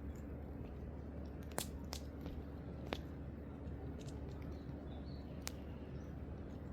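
Wood fire burning, crackling with a few sharp, irregular pops over a steady low rumble.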